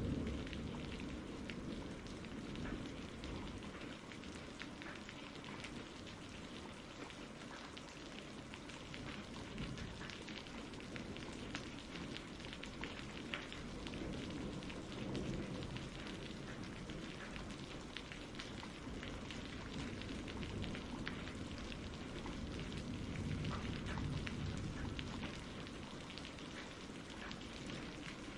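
Steady rain falling and pattering, with many small drop ticks. A roll of thunder dies away in the first second, and faint low rumbles swell and fade later on.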